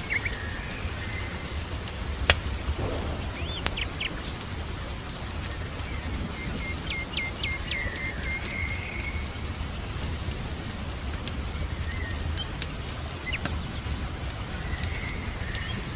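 Steady rain with birds chirping over it: scattered short calls and a quick run of about six chirps around seven seconds in. Scattered light clicks and one sharp pop a little over two seconds in.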